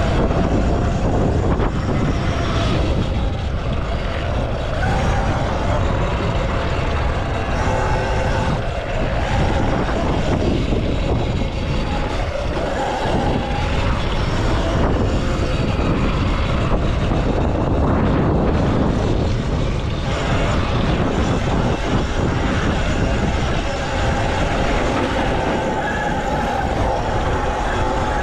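A full-electric Stage 2 M1 motocross bike ridden hard on a track. A dense rush of wind and rumble covers the microphone, over a motor whine that rises and falls with the throttle.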